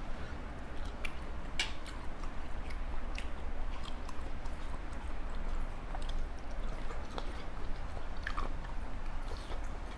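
A person chewing a mouthful of Thai mixed seafood pounded salad (tam pa thale) with rice noodles. The chewing is wet, with scattered short crisp crunches and mouth clicks, over a steady low hum.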